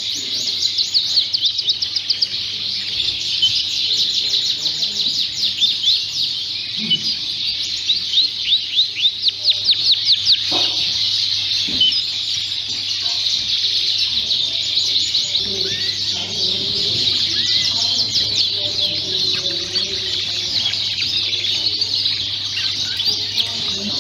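Many Fife canaries singing at once: a dense, continuous chorus of chirps and warbles, with fast rolling trills standing out a second or two in and again around eight to ten seconds in.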